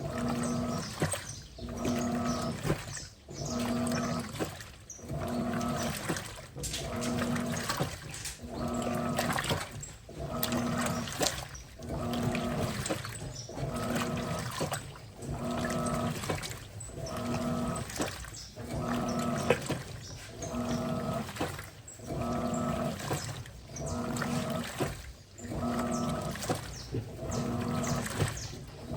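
Electrolux Turbo Capacidade Premium 15 kg (LTP15) top-loading washing machine agitating a load: the motor hums on each stroke of the agitator, about every two seconds, while water sloshes through the clothes.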